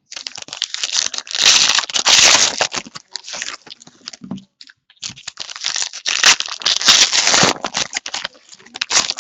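Plastic trading-card pack wrappers being torn open and crinkled, in two long bursts with small crackles between.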